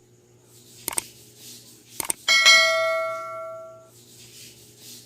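A single bell-like ding, struck once about two seconds in and ringing out over about a second and a half. Two light clicks come before it, over a faint steady hum.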